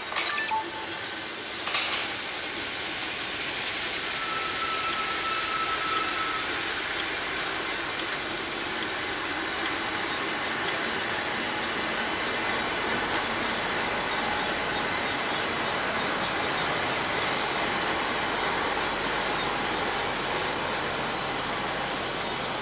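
Railhead treatment train of water tank wagons hauled by a GB Railfreight Class 73 locomotive passing close by: a steady rush of wheel and track noise that builds over the first few seconds and holds. A few sharp clicks come in the first two seconds.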